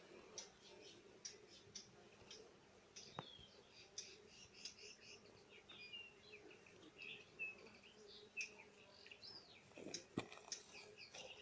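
Faint birdsong: several birds chirping in quick, short notes. Two sharp clicks stand out, one about three seconds in and a louder one near the end.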